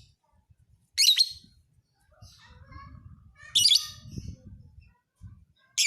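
Lovebird calling in three loud, shrill bursts about two and a half seconds apart, with quieter chattering between them.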